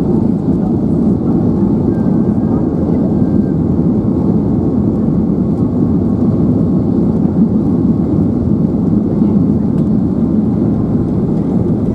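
Steady, loud rumble of a Boeing 737-800's CFM56 engines and airflow heard inside the passenger cabin during landing.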